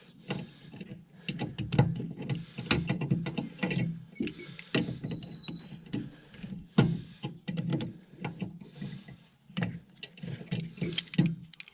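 Irregular clicks, knocks and rattles of hands working at a finish mower deck's belt tensioner, loosening a bungee cord rigged in place of the tensioner spring. Crickets chirp steadily behind.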